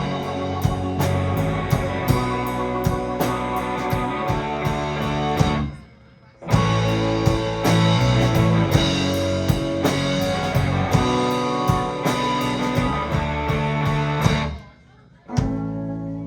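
Live rock band with electric guitar, bass, drum kit and keyboards playing an instrumental passage. The whole band cuts out together twice for under a second, about six seconds in and again near the end, then comes straight back in.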